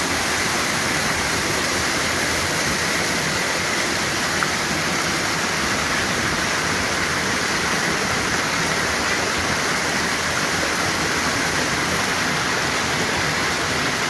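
A creek in flash flood: swollen floodwater rushing steadily.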